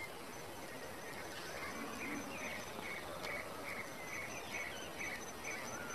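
Rural outdoor ambience: a bird repeats a short chirp about three times a second, starting a second or two in and stopping near the end. Behind it are a faint steady high insect trill and a few other bird calls.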